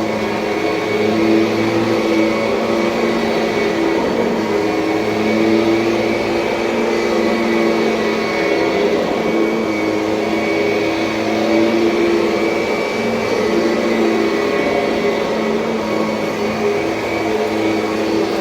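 2007 Kirby Sentria upright vacuum cleaner running steadily with a motor hum whose pitch wavers slightly.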